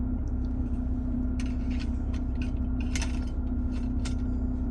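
Mercedes-Benz E300 idling, a steady low hum heard inside the cabin, with a handful of sharp clicks as the air-conditioning controls are worked.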